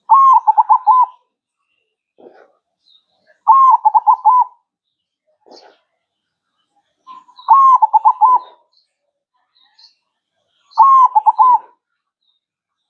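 Zebra dove (perkutut) cooing its song four times, a phrase every three to four seconds. Each phrase lasts about a second: a longer first note, then three quick, even notes.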